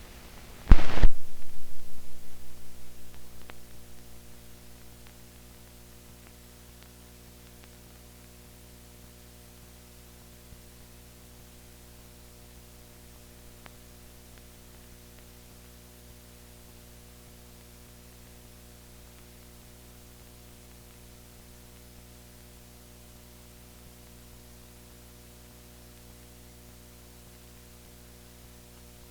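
Steady electrical hum and hiss, several fixed tones layered together, of a soundless stretch of old film audio. A loud thump about a second in dies away over the next few seconds.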